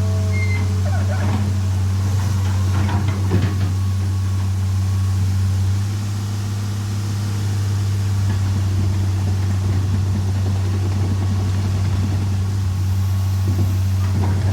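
Excavator engine running steadily with a low drone, with a few short clanks and knocks in the first few seconds and again near the end.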